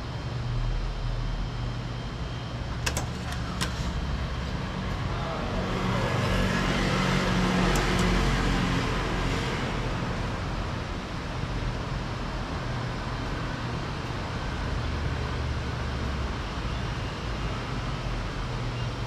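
Car engine idling with a steady low hum, two sharp clicks about three seconds in, and a wash of traffic noise that swells and fades in the middle.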